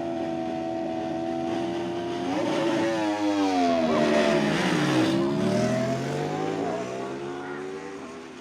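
Superbike engines on a drag strip are held at steady high revs for about two seconds. Then they rev up and swing in pitch as the bikes launch and pull away. The sound is loudest about five seconds in and fades near the end.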